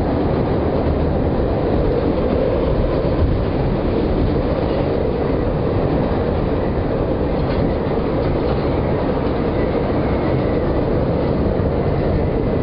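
Chicago L train car running between stations, heard from inside the car: a steady rumble of wheels on rails.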